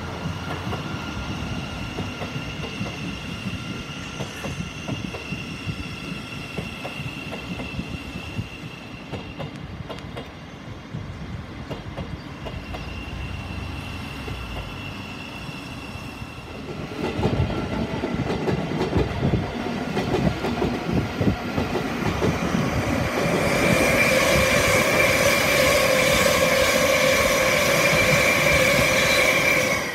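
Electric passenger trains passing on the line, their wheels rumbling and clattering over the track. The sound grows louder about 17 seconds in as a train passes close. From about 24 seconds in a loud, steady high-pitched squeal rides over the rumble.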